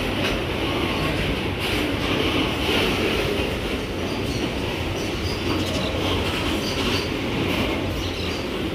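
A freight train's covered pulp wagons rolling steadily past close by: a continuous rumble of steel wheels on rail, with intermittent high wheel squeal and light clicks over the rail joints.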